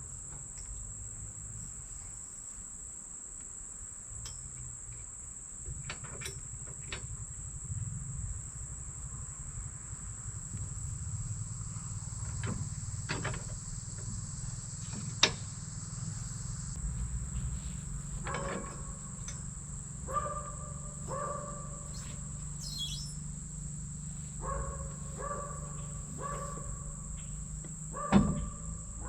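Insects buzzing steadily in a high, even tone over a low steady rumble, with scattered sharp knocks. From about two-thirds of the way in, short two-pitched calls repeat in small groups.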